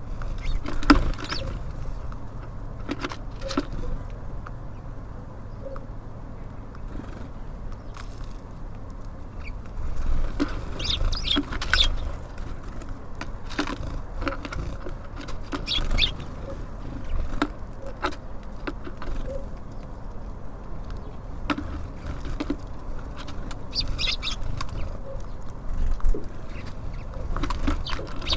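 Small birds at a feeder: scattered sharp taps and pecks with a few short, high chirps, over a steady low rumble.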